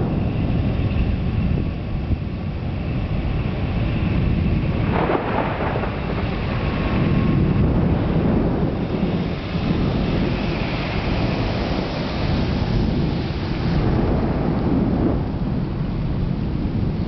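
Thunderstorm with low thunder rumbling and swelling continuously over rain.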